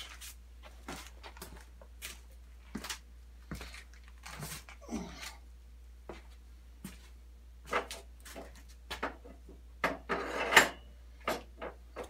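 Metal and plastic parts of a miter saw stand being handled during assembly: scattered clicks, knocks and rattles, with a louder clatter about ten and a half seconds in.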